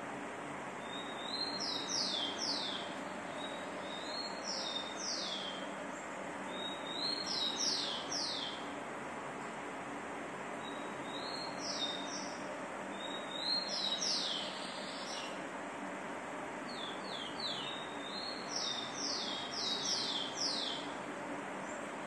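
A songbird singing in short phrases repeated every two to three seconds. Each phrase is a brief high note followed by a few quick falling notes, over a steady background hiss.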